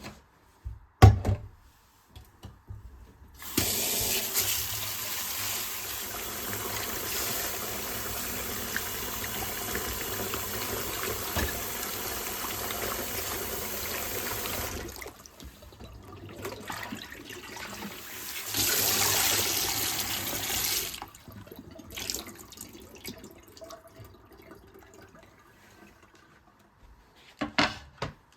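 Water tap running into a sink for about ten seconds, then a second, shorter run of about two seconds. A sharp knock about a second in and two short clicks near the end.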